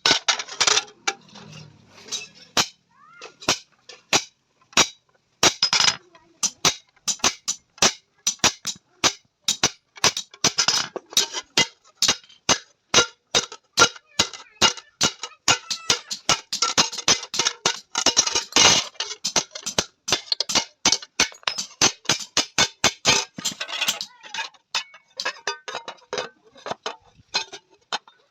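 Hand hammer striking an iron tawa plate on an anvil: a steady run of sharp metallic blows, about three a second, each with a short ring.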